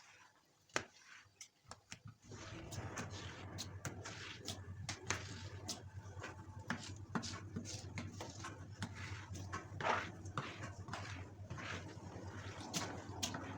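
Kitchen handling noises: scattered clicks and clatters. About two seconds in, a steady low hum with a noisy hiss begins and runs under them.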